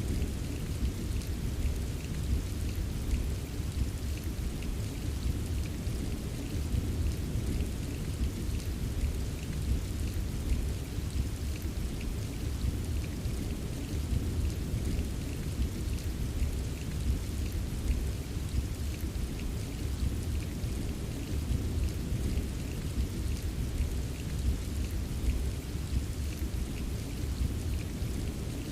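Steady rain with a low, continuous rumble of distant thunder that swells and eases, and scattered raindrops ticking on a surface.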